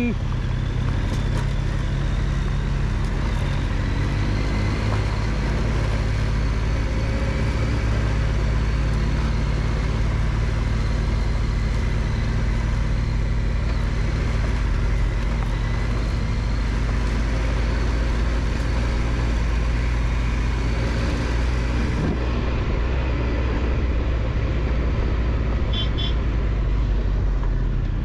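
Triumph Tiger 1200 XCX's three-cylinder engine running steadily under way on a dirt road, mixed with wind and tyre noise.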